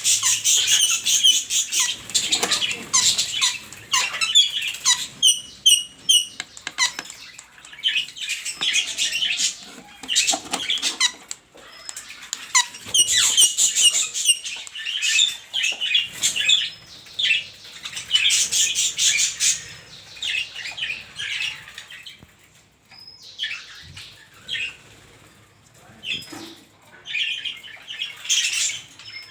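A colony of small cage birds chirping and squawking in rapid, overlapping bursts, with a quieter, sparser stretch about three quarters of the way through.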